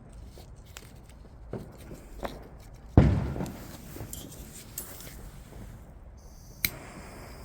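Fireworks going off: a few small pops, then one loud bang about three seconds in that echoes away over about a second, and a sharp crack near the end.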